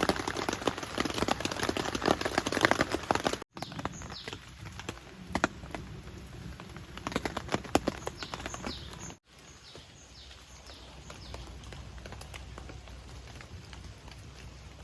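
Outdoor campsite ambience in three short cuts: scattered irregular taps and clicks over a low background hiss, with small birds chirping in the later part.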